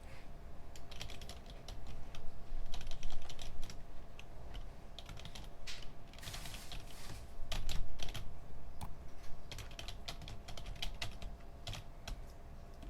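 Computer keyboard typing in irregular bursts of key clicks, with a brief rustle about six seconds in. A steady low hum runs underneath.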